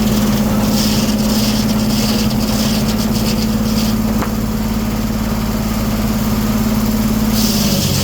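1907 American sawmill machinery running with a steady, loud hum. Near the end its main tone drops sharply to a lower pitch and holds there.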